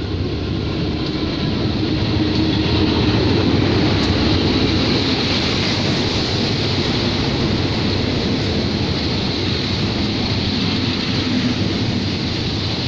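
Diesel-hauled passenger train running past close alongside the platform. The locomotive goes by first, loudest about three seconds in, and a steady heavy rush of the coaches' wheels on the rails follows.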